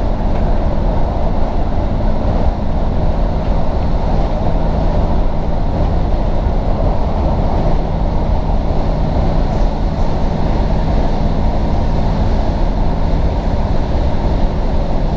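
Diesel multiple-unit train running steadily at speed, heard from inside the carriage: a constant low engine drone over the rumble of the running gear.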